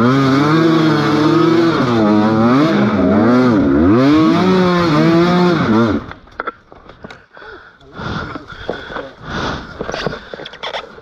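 Motorcycle engine revving hard, its pitch rising and falling over and over for about six seconds, then cutting off suddenly. Quieter scattered knocks and rustles follow.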